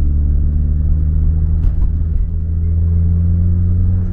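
Nissan Silvia S15 Spec R's SR20DET turbocharged inline-four engine running with a steady low drone.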